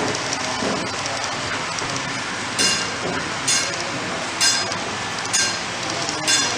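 HO scale model train layout running with a steady rushing hiss. From about two and a half seconds in, a bell strikes about once a second.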